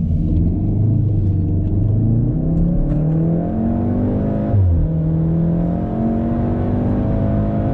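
VW Golf R's turbocharged four-cylinder engine pulling hard under acceleration, revs climbing steadily, dropping at a gear change about four and a half seconds in, then climbing again.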